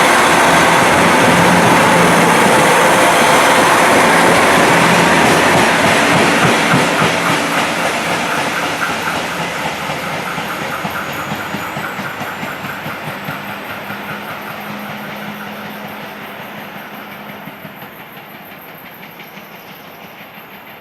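KiHa 261 series diesel train running away, loud at first and then fading steadily. Through the fade comes a regular, repeating 'tan-tan-tan' knocking from the wheels, the sound of a wheel flat (a flat spot worn on a wheel tread).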